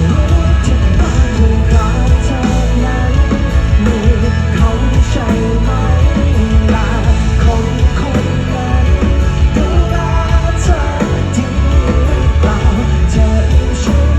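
Rock band playing live, with singing over loud, steady bass and drums.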